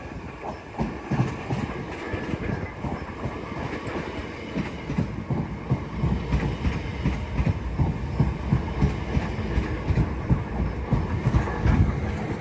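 Class 465 Networker electric multiple unit running into the station, its wheels clattering over the track. The clatter gets louder and busier about halfway through.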